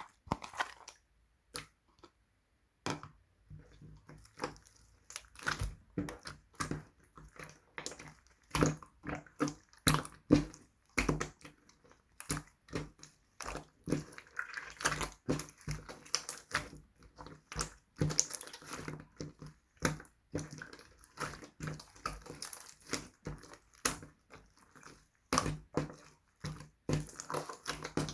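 Clay-mixed slime being squeezed, poked and stretched by hand, making rapid, irregular clicks, pops and soft squelches.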